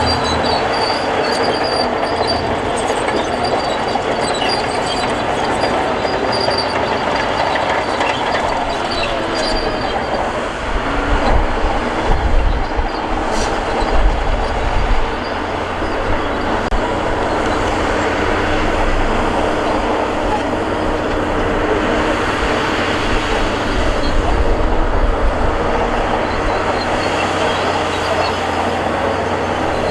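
Crawler bulldozer working: its diesel engine runs under load while the steel tracks clank and squeal, with a heavier, louder stretch about 11 to 15 seconds in.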